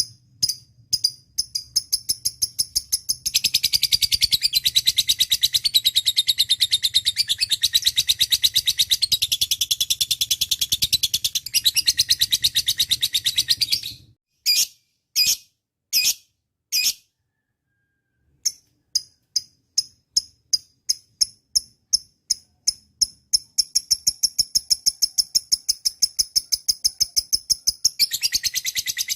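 A lovebird singing in shrill, fast-repeated chirps. It starts with separate chirps, breaks into a long unbroken rapid run from about three seconds in until about fourteen seconds, and goes back to spaced chirps. After a short silent gap the chirps return and speed up into another rapid run near the end.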